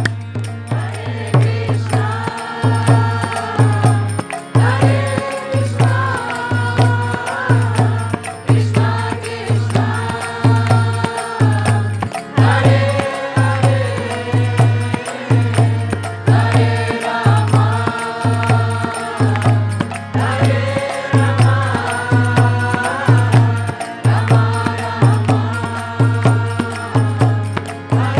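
Kirtan: voices chanting a devotional mantra in repeated melodic phrases of about two seconds each, over a drum beating a steady rhythm and jingling hand percussion.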